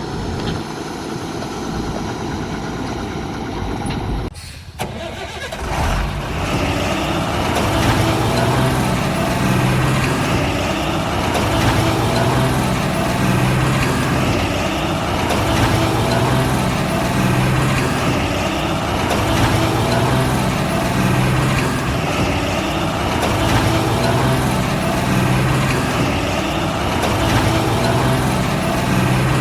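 Heavy vehicle engine starting about five seconds in, then running with a steady low throb that swells and fades every couple of seconds.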